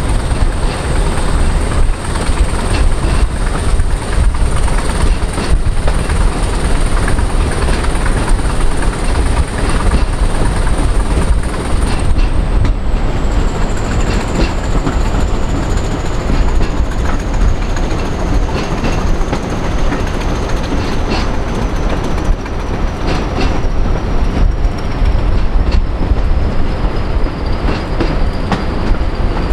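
Train running over jointed track with a steady clickety-clack of rail joints, under a continuous high whistle that holds its pitch and then, about twelve seconds in, begins a slow slide down in pitch.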